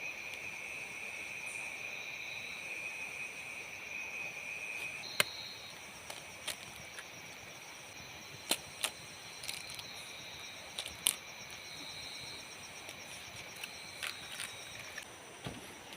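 Insects calling in chorus: several steady high-pitched trills, one pulsing rapidly, and the lowest one stops about five seconds in. A dozen or so short, sharp clicks or snaps come at irregular intervals.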